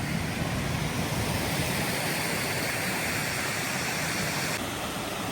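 Steady rushing of a mountain waterfall swollen with rainwater, a full, even noise without pause.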